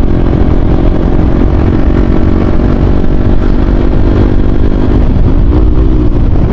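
Motorcycle with an SC Project aftermarket exhaust running while being ridden, its engine note holding steady and then rising and falling slightly near the end, under a heavy low rumble of wind on the microphone.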